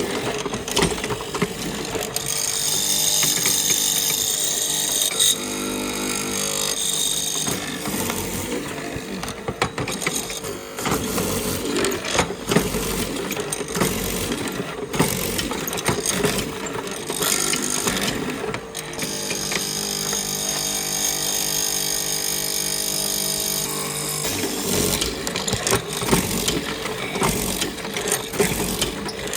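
A woodworking power tool runs steadily twice, for about five seconds each time, with a hum and a bright hiss. Between the runs come irregular knocks and clicks of wood and tools being handled.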